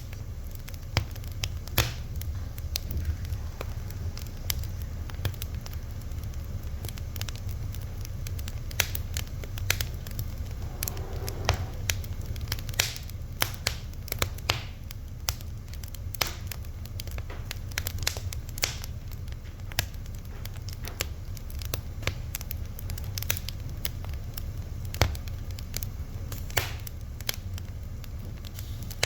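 Wood fire burning, with irregular sharp crackles and pops over a steady low rumble of the flames. A faint brief hiss near the middle.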